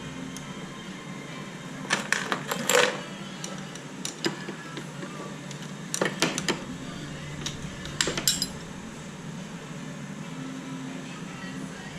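Metal tools and parts clinking and knocking in three short clusters, about two, six and eight seconds in.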